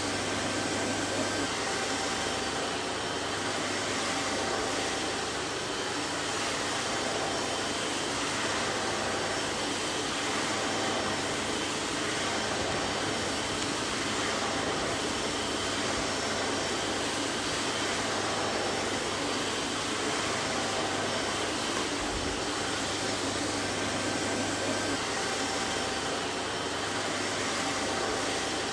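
Vacuum cleaner running steadily: an even rushing noise with a few faint steady tones in it.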